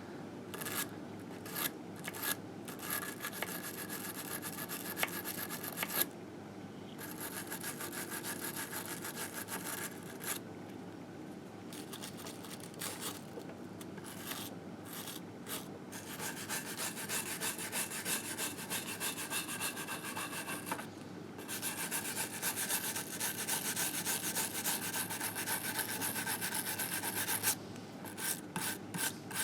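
Rapid back-and-forth scrubbing on a 1958 Harley-Davidson Sportster engine case, working off built-up grime. It comes in spells with a few short pauses.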